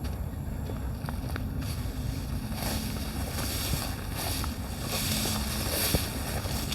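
Wind buffeting the microphone outdoors, a steady low rumble with hiss that swells in the middle.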